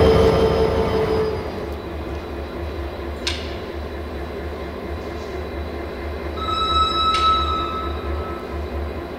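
Passenger train rolling slowly into a station: the CFR class 64 locomotive passes with a steady whine that fades out about a second in, then the coaches rumble past on the rails. There are two sharp clicks, and a brief thin steady squeal from about six to eight seconds in.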